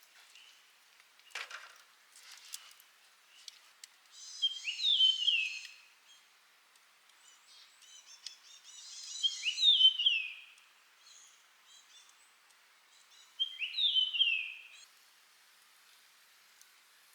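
A songbird singing three phrases a few seconds apart, each a quick cluster of high notes that ends in bright falling notes. A few faint clicks come in the first few seconds, the sharpest about a second and a half in.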